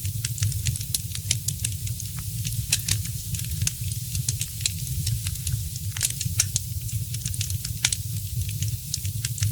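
Wood fire crackling in a fireplace: many irregular sharp pops and snaps over a steady hiss, with a continuous low rumble of the burning fire underneath.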